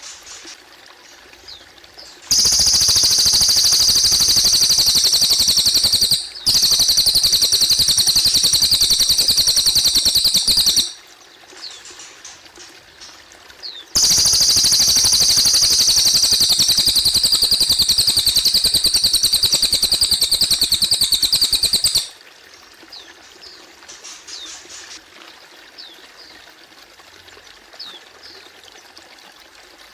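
Cililin bird singing long, loud, very rapid high trills in three runs, the first two separated by a brief break and the third starting about fourteen seconds in, with faint chirps between them over a steady trickle of water.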